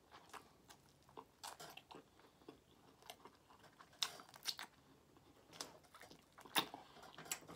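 Close-miked chewing and biting as a man eats meat off a barbecue rib: irregular short smacks and clicks of the mouth, the loudest about four and six and a half seconds in.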